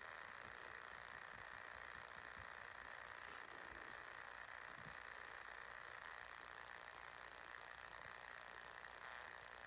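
Near silence: steady faint hiss of room tone.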